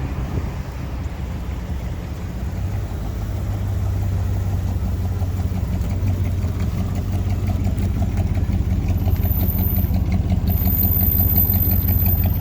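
Vehicle engine idling with a steady, even pulse, growing louder over the first few seconds and then holding.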